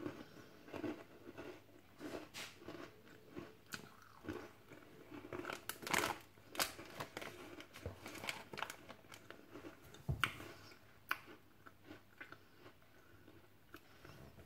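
A person chewing and crunching a crisp snack close to the microphone: irregular small crunches and mouth clicks, with the loudest bites around the middle.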